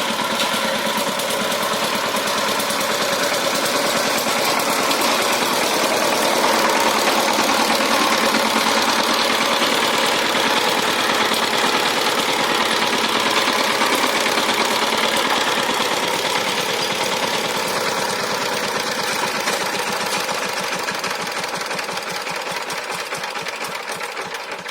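Diesel power tiller engine running steadily under load, with a rapid knocking beat. It gets gradually quieter over the last several seconds.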